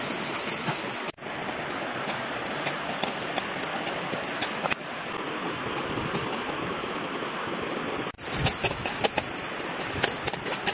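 Ground spice paste frying in hot oil in a wok: a steady sizzle, with sharp taps and scrapes of a metal spatula against the pan. The sound breaks off briefly twice, about a second in and near the end.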